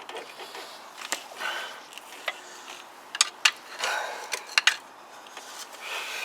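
Sharp metallic clicks and knocks with some scraping, irregularly spaced, as a Kawasaki GPZ500S engine is shifted against its motorcycle frame while being wrestled into position.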